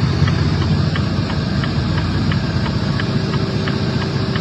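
Vehicle engine idling steadily, a low rumble with a faint regular ticking about three times a second.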